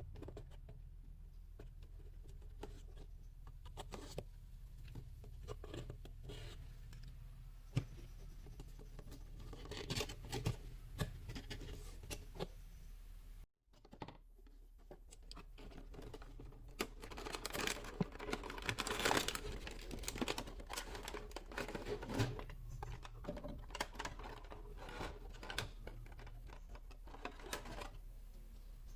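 Toy packaging being handled and opened by hand: scratching, tearing and crinkling of cardboard and plastic, with many small clicks, over a steady low hum.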